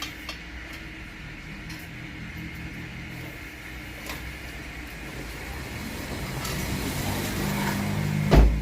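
A motor vehicle engine running with a low hum that grows louder over the last few seconds, and one sharp knock near the end.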